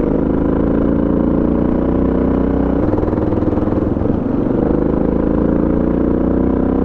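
Suzuki DR650 single-cylinder four-stroke engine running steadily under way on a dirt road, its pitch shifting slightly about three seconds in.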